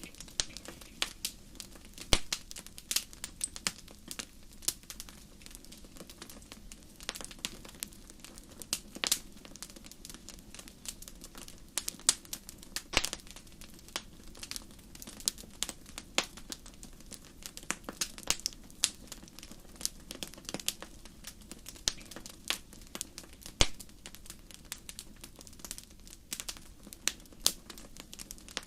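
Wood fire crackling in a fireplace: irregular sharp pops and snaps, several a second, over a soft steady low noise of the flames.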